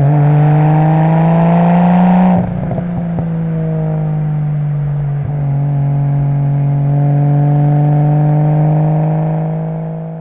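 Nissan Skyline GT-R R32's twin-turbo RB26DETT straight-six pulling under load with its pitch slowly rising and a harsh rasp. About two and a half seconds in the harsh edge cuts off, and the engine runs on at a nearly steady pitch, fading near the end.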